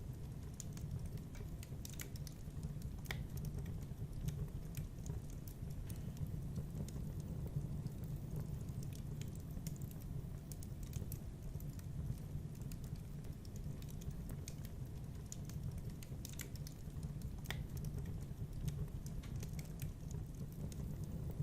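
Wood fire crackling in a fireplace: irregular sharp pops and snaps scattered over a steady low rumble.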